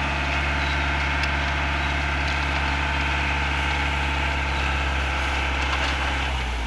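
Engine of a cement concrete mixer machine running steadily, its note dropping slightly near the end.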